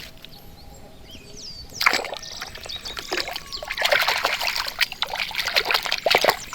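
Water splashing and trickling, starting about two seconds in and growing busier and louder.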